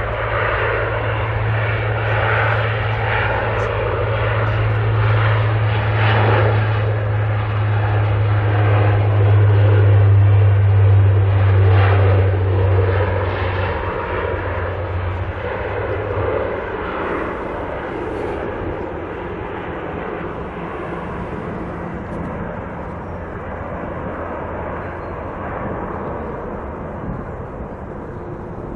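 Turboprop airliner passing, its propellers making a steady low drone over engine noise. The sound is loudest about ten seconds in. The low drone stops about halfway through, and the remaining engine noise slowly fades.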